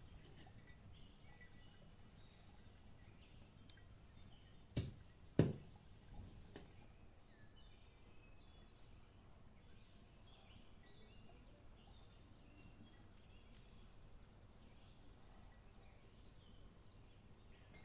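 Faint birds chirping, with two sharp clicks about five seconds in, half a second apart, and a few softer clicks just after.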